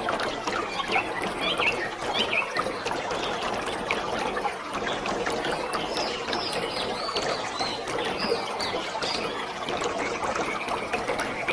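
Waterfall: falling water pouring and splashing in a steady rush, with short high bird chirps over it, a few early on and a run of higher-pitched ones through the middle.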